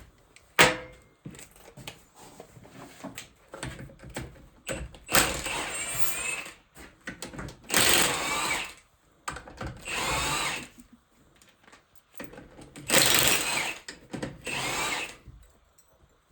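Power drill running in five short bursts of about a second each, backing bolts out of an NV4500 transmission case. A sharp knock sounds about half a second in.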